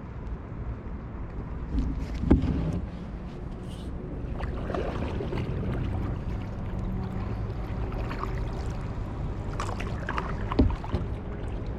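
Kayak paddle strokes dipping and splashing in lake water, irregular, with the sharpest splash about two seconds in and more strokes near the middle and end, over a steady low rumble.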